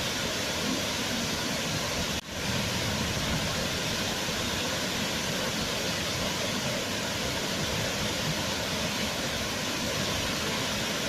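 Waterfall, a steady rush of falling water with a brief dropout about two seconds in.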